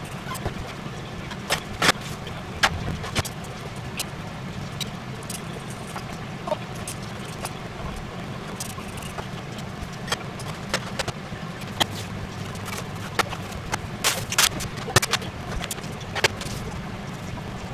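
Cooking sounds: scattered sharp clicks and knocks of utensils being handled, over a steady low hum.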